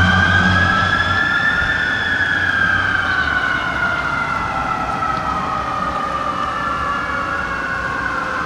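Whelen Xecutor electronic siren in its mechanical tone, a slow wind-up that peaks about a second and a half in and then winds slowly down, layered with a second siren tone. A fire truck's engine rumble fades out early, and the sound grows gradually fainter.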